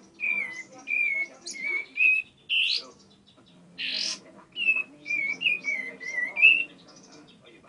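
Ciblek (bar-winged prinia) singing: a rapid series of short, wavering whistled notes, broken by a few louder upward-sweeping calls, with a brief pause just past the middle.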